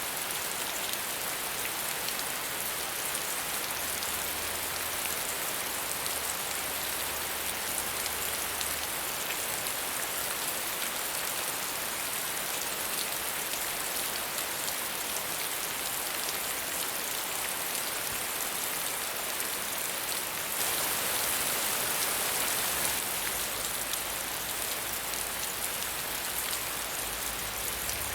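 Steady rain falling on a surface, an even hiss full of fine drop patter, a little heavier for a couple of seconds about two-thirds of the way in.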